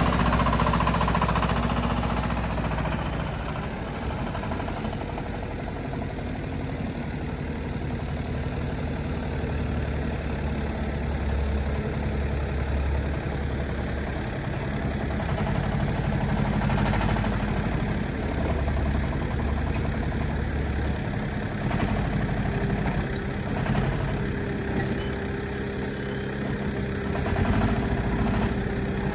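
Backhoe loader's diesel engine running steadily, its loudness rising and falling a little as the machine works.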